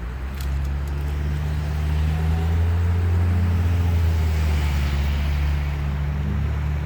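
Motor vehicle engine hum with road noise, swelling to its loudest around the middle and easing off toward the end.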